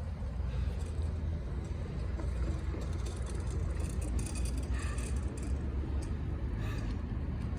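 Low, steady rumble of road traffic going by.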